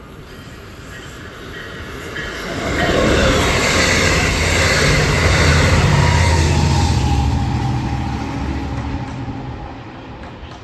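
Long Island Rail Road train passing by: the rail noise builds up, is loudest for several seconds with a steady low hum underneath, then fades away.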